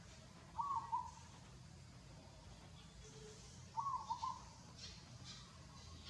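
A bird calling twice, about three seconds apart, each call a short run of two or three quick notes on nearly one pitch, over a faint steady low hum.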